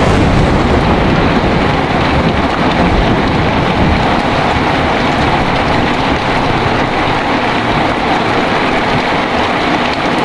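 Heavy rain pouring steadily with wind, in a loud even hiss. A low rumble of thunder dies away over the first few seconds.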